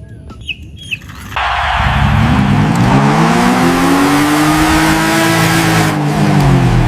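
A couple of small clicks and short high chirps, then about a second and a half in a loud engine sound with a hiss starts, its pitch climbing slowly and then falling again.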